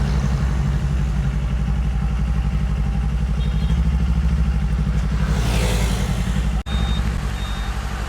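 Kawasaki Z500 motorcycle engine running steadily while riding. A short rushing swell comes about five and a half seconds in, then a brief dropout in the sound, with a few short high beeps around it.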